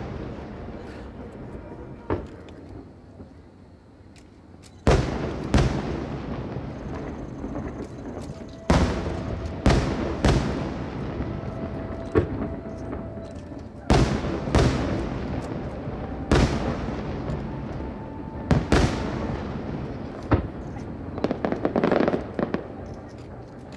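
Fireworks display: over a dozen sharp firework bursts at uneven intervals, each bang trailing off in a long echo, with a quick run of crackling near the end.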